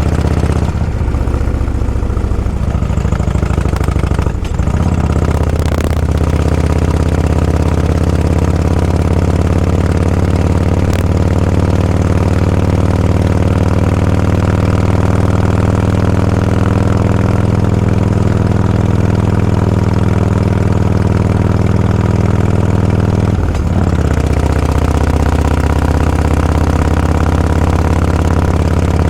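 A vehicle engine running steadily at low speed, its note dropping out briefly about four seconds in and again near 24 seconds, as if between gears.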